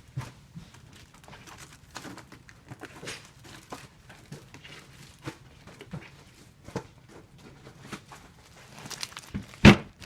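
A tape dispenser in use while taping comic books: scattered light clicks, taps and rustles, with one much louder sharp knock near the end.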